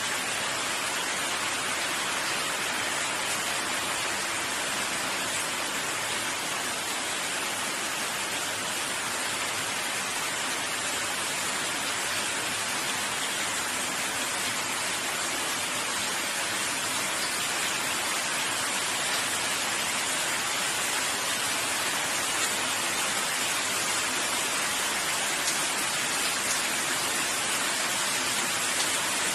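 Steady rainfall, a constant even hiss of rain on surfaces.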